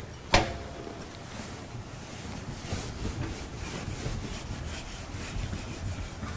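A single short knock about a third of a second in, then low steady room noise with faint scattered rustles.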